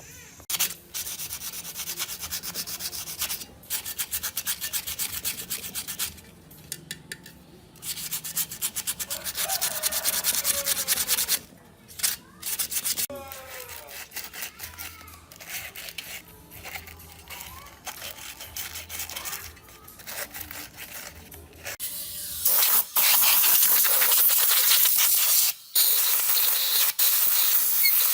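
Rapid abrasive scraping or rubbing strokes, as in sanding, coming in several spells with short pauses between them. From about two-thirds of the way through, a louder, steadier hissing scrape takes over.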